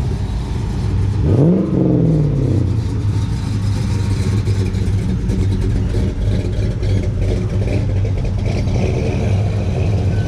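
Car engines passing at low speed; about a second in, one engine revs up and drops back.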